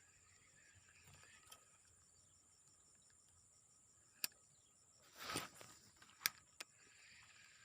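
Faint steady chirring of crickets and other insects, a high trill with a pulsing chirp beneath it. Around the middle come a few sharp clicks and a brief rustle, the loudest sounds.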